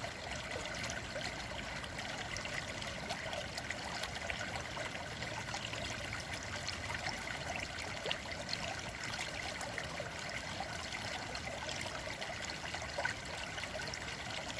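A small woodland stream running, its water trickling steadily over the stones with a fine patter of little splashes.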